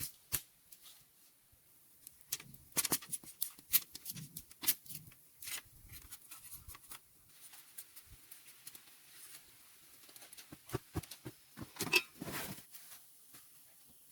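Irregular clicks and short rustles, coming in two busy stretches with quieter gaps between them.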